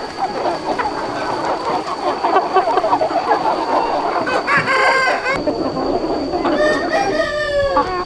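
A large flock of chickens clucking and calling continuously. A rooster crows about four and a half seconds in and again, longer, near the end.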